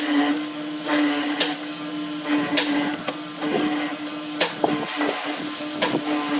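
A power tool's electric motor running at a steady pitch, with irregular sharp knocks and clicks from work on the wood.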